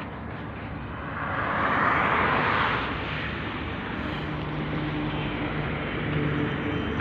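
Highway traffic noise: a vehicle passes close, swelling up and fading about two seconds in, with an engine running steadily underneath.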